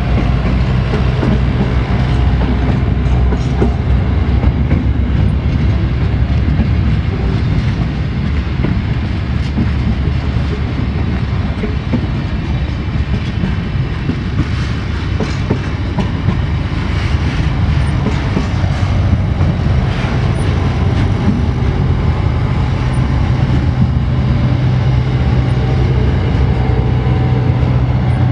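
Container freight train wagons rolling past close by: a steady, loud rumble and clatter of steel wheels on the rails.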